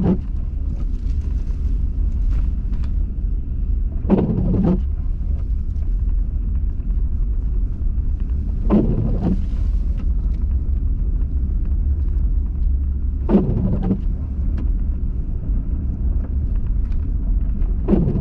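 Steady low road and engine rumble inside a moving car, with windshield wipers sweeping about every four and a half seconds.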